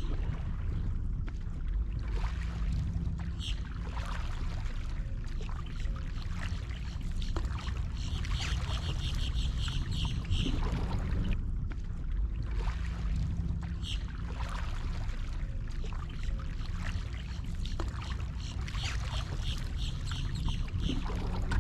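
Water sounds around a fishing kayak over a steady low rumble, with a few short runs of rapid, evenly spaced high ticking.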